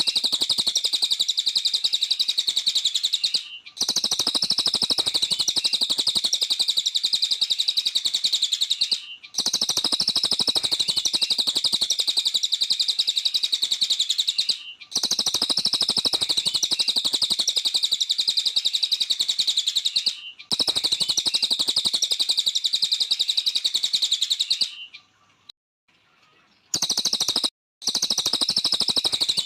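Cililin bird singing a fast, continuous high twittering song in long phrases of about five seconds each, separated by brief pauses, with a longer pause near the end.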